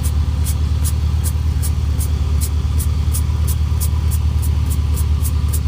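1998 BMW 540i's 4.4-litre V8 idling steadily, heard at the tailpipe through an aftermarket Magnaflow muffler: a deep, even exhaust rumble that is kind of loud. A light, high ticking repeats about three times a second over it.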